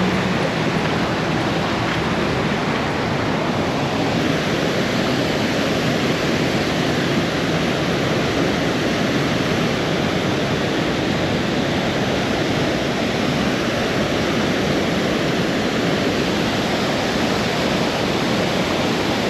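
Steady rush of a small stream's flowing water running over rocks, close and loud.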